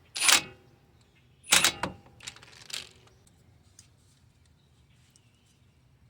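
Impact gun fired in short trigger pulses to run a 12 mm bolt in gently: two brief bursts in the first two seconds and a couple of fainter ones just before three seconds, then only faint clicks of handling.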